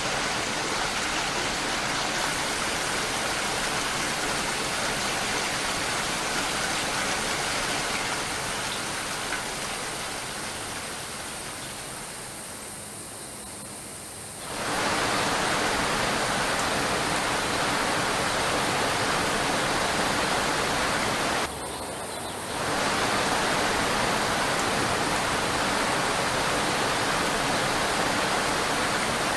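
Steady rain, a dense even hiss of falling drops. It fades down towards the middle, cuts back in abruptly at full strength, and drops out briefly about three quarters of the way through.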